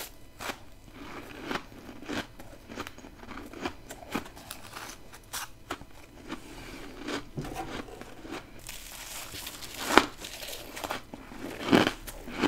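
Freezer frost ice being bitten and crunched, close up: a run of crisp, crackly crunches, with two sharp loud bites near the end.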